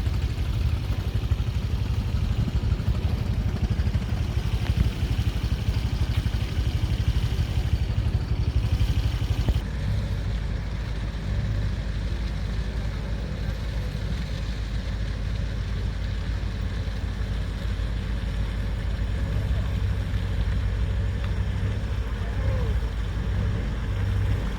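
A steady engine rumble with a haze of noise over it; about ten seconds in it turns slightly quieter and duller.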